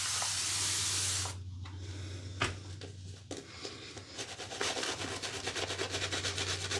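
Dense synthetic shaving brush (Muhle STF++ knot) working soap lather on the face in quick, rhythmic rubbing strokes; the lather is still thick and pasty. A steady hiss fills the first second, then the brush strokes grow denser and more regular over the last few seconds.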